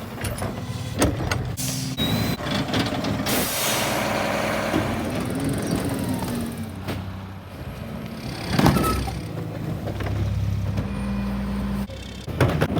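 Mack LR garbage truck with a McNeilus body running, with short bursts of air hiss in the first few seconds and a loud bang a little under nine seconds in.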